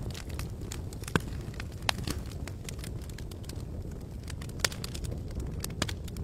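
Wood campfire crackling, with irregular sharp pops, a few of them louder (about a second in, near two seconds, and twice in the last two seconds), over a steady low rush.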